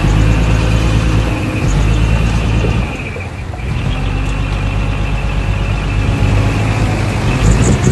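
Heavy diesel construction machinery running steadily. The engine sound eases off briefly about three seconds in, then picks up again.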